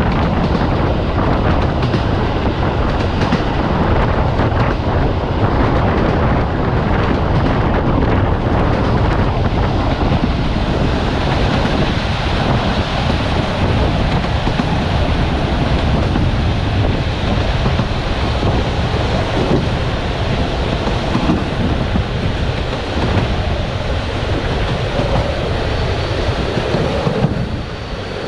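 Passenger train running along the line, heard from its window: a steady rush of wind with wheel and rail noise beneath it, dipping briefly just before the end.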